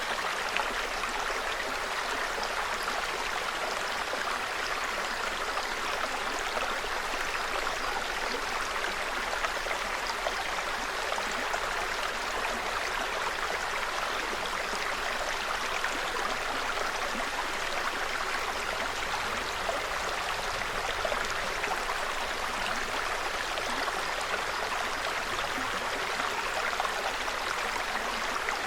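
Small forest stream trickling steadily, an even, unbroken babble of running water.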